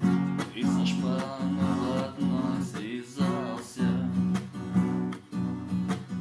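Acoustic guitar strumming chords in a steady rhythm: an instrumental passage of a song.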